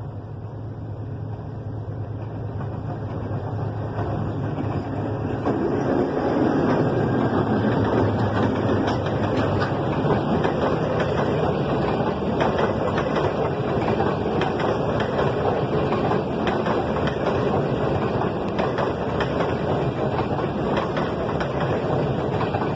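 DF7G-C diesel locomotive approaching, its engine growing louder over the first several seconds, then the steady rolling noise of the passing train, with faint wheel clicks over the rail joints.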